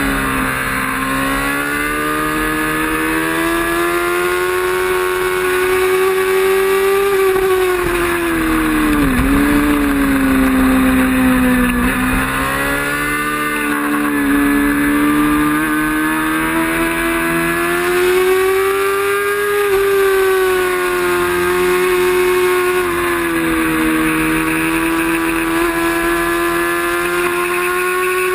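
Racing motorcycle engine running hard, its note climbing as the bike accelerates and dropping sharply as it slows for corners, twice in quick succession about a third of the way in, with wind rush underneath.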